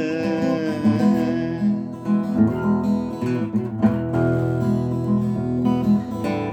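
Strummed acoustic guitar playing an instrumental passage of a song between sung lines.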